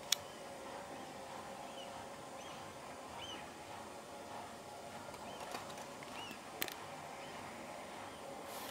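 Faint outdoor ambience: a steady low hum with a few short, high chirps from small birds scattered through it, and two sharp clicks, one at the very start and one about two-thirds of the way through.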